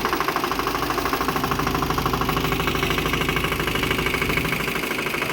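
Motorboat engine running steadily with a fast, even chugging beat.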